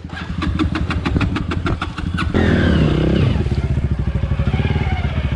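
Dirt bike engine: for about two seconds it runs at low idle with rapid, even popping, about ten beats a second. It then switches abruptly to smoother running with a brief rev up and back down.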